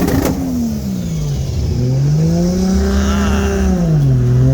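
Car engine being revved twice, its pitch rising and falling each time, the second rev held for about two seconds before dropping back. A short sharp crack sounds right at the start.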